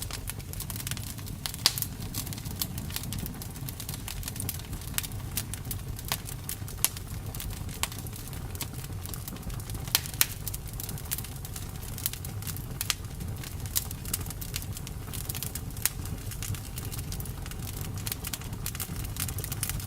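Campfire burning: wood crackling with irregular sharp pops, a few of them loud, over a steady low rumble of the flames.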